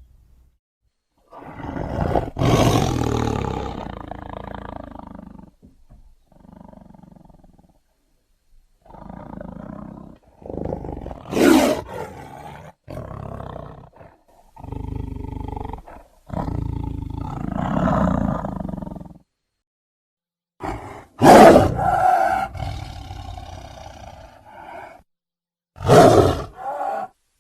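Tiger roar and growl sound effects: a series of separate roars and snarling growls with brief pauses between them, the sharpest peaks about 11 and 21 seconds in.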